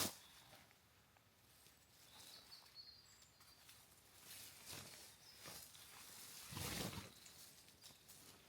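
Quiet outdoor ambience with faint, soft rustling sounds, the loudest about seven seconds in, and a brief faint high chirp near the start.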